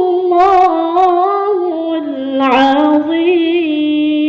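A child's voice chanting Qur'an recitation (tilawah) in a slow, ornamented melody, holding long wavering notes: the drawn-out closing 'ṣadaqa Allāhu al-ʿaẓīm' that ends the recitation.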